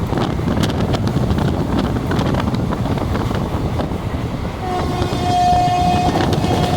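Steady rushing noise, with a single-pitched horn sounding about four and a half seconds in and held for around three seconds, with one brief break.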